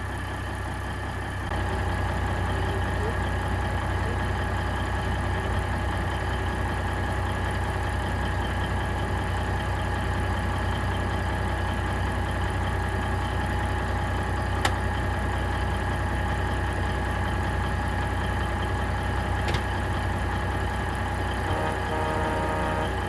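Caterpillar 3406B inline-six diesel in a Ford CL9000 truck idling steadily, running on its rebuilt fuel transfer pump after a long lay-up. It gets louder about a second and a half in, with two faint clicks later on.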